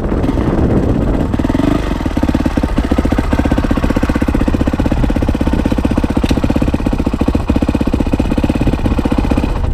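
Dirt bike engine running with a quick, even beat of firing pulses, after a short rising rev about a second in; it sounds like it is idling or running at low steady revs.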